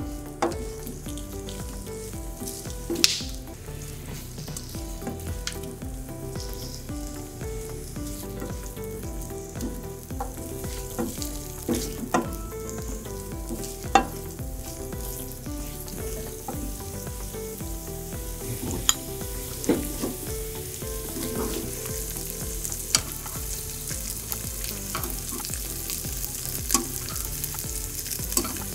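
Corn, carrots and green beans sizzling in melted butter in a frying pan as they are stirred with a spatula and moved with metal tongs, with sharp clicks and taps of the utensils against the pan now and then. The sizzle grows stronger in the second half.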